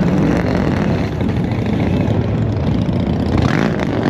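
A car engine running at low speed with a deep exhaust note, with a brief rising sound near the end.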